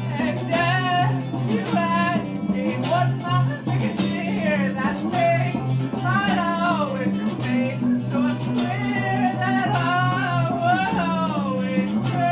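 Live band music: a singer's voice over guitar and steady bass notes.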